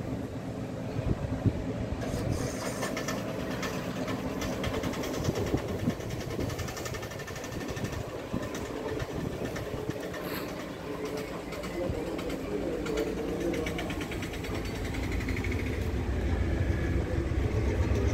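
Train on the line, a steady rumble whose low drone grows louder over the last few seconds as it comes closer.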